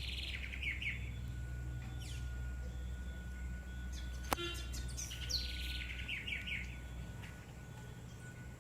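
A bird singing a short phrase of quick falling chirps, twice, about five seconds apart, over a steady low rumble. A single sharp click comes just before the second phrase.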